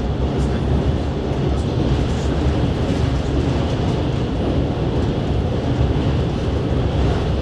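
JR Shikoku 8000 series electric train running at speed, heard from inside the passenger car: a steady, even rumble of wheels on rail and running gear.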